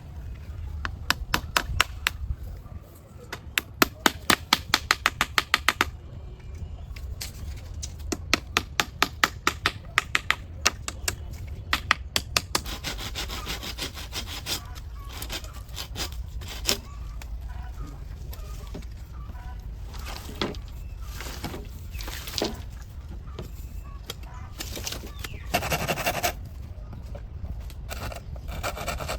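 Hammer blows in quick runs of about four strikes a second, then a stretch of rough scraping and a few single knocks, with a short scraping burst near the end.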